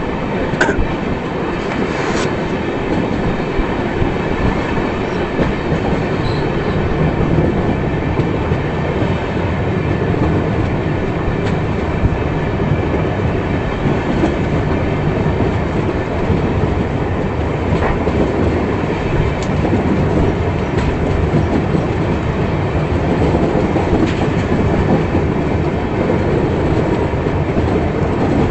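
Passenger train running, heard from inside an air-conditioned coach: a steady rumble of wheels on the rails with a few light clicks scattered through.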